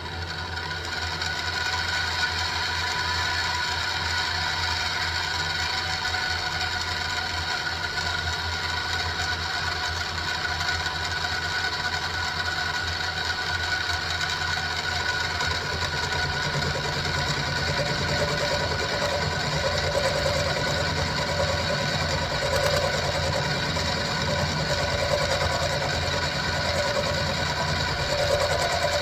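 Central Machinery (SIEG X2) mini milling machine running: the spindle motor and its plastic-geared head whine steadily over a low hum, coming up to speed in the first second or so. About halfway through a deeper growl joins as the cutter works the 1045 steel.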